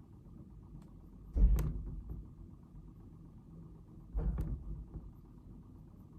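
Two dull thumps about three seconds apart over a steady low background hum, the first one louder.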